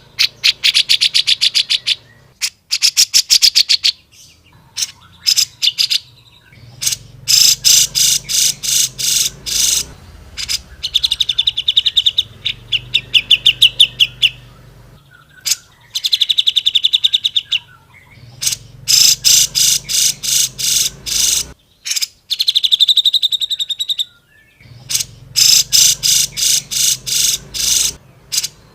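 Cucak jenggot (grey-cheeked bulbul) singing in loud bursts of rapid, rattling repeated notes and trills, each burst a second or two long, separated by short pauses.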